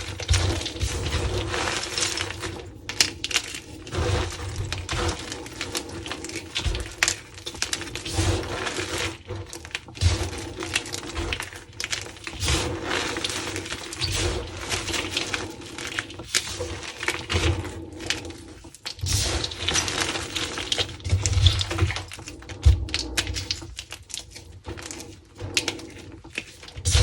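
Dyed gym chalk being crunched and crumbled close to the microphone: a dense, irregular run of crackles and snaps with occasional soft thuds.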